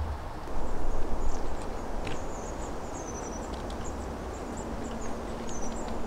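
Small songbirds calling with short, high, thin chirps, some in quick falling runs, over a steady low rumble that swells briefly about a second in.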